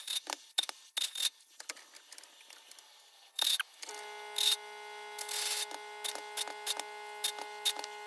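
Scattered sharp clicks and taps of hand tools and metal parts being handled on a dismantled mower engine. A steady hum starts about four seconds in and continues under the clicks.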